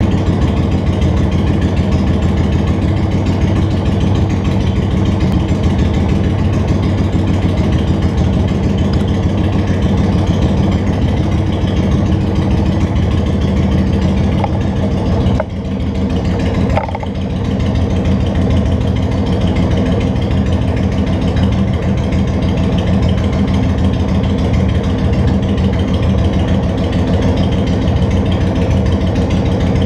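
Honda Shadow Spirit 750's V-twin engine running steadily while riding, dipping briefly about halfway through.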